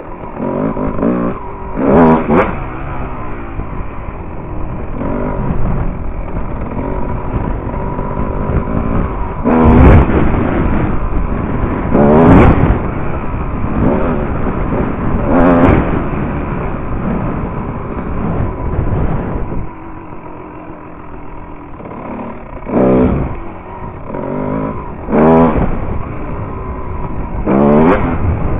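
Dirt bike engine revving hard in about seven sharp surges, each rising and falling in pitch, with lower-rev running in between: throttle bursts for pulling wheelies.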